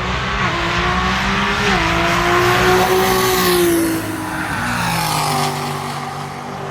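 Drag racing cars accelerating hard down the strip just after launch, engines revving up through a gear change, then fading as they pull away down the track.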